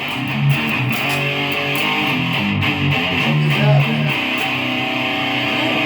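Guitar music, an electric guitar playing a steady run of notes with no voice over it.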